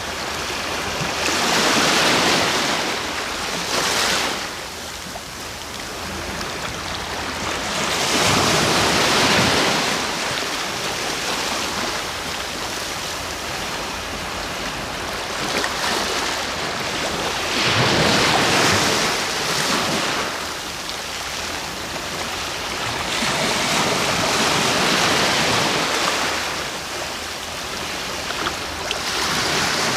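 Sea waves breaking and washing onto the shore, surging louder every several seconds over a steady hiss of surf.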